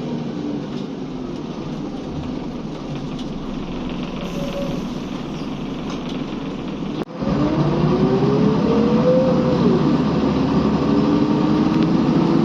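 Scania L94UB city bus engine running. After a sudden break about seven seconds in it is louder, with a rising whine that climbs, drops back, and climbs again as the bus accelerates.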